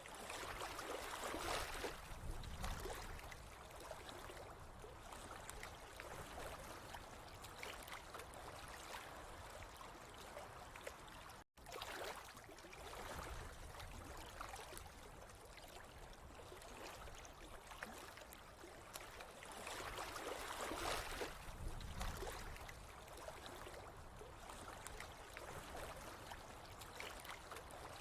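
Running water trickling and gurgling steadily, swelling louder twice, with the sound cutting out for an instant about a third of the way through.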